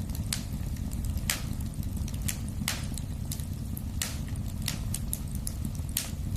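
Wood fire burning in a fireplace: a steady low rumble with irregular crackles and sharp pops, several loud snaps among many smaller ticks.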